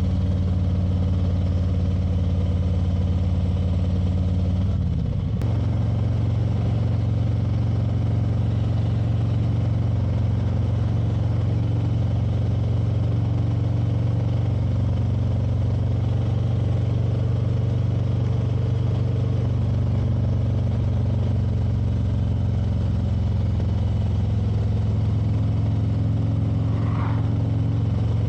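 Motorcycle engine running steadily while riding. About five seconds in the note dips briefly with a faint click, as at a gear change, then holds steady at a higher pitch.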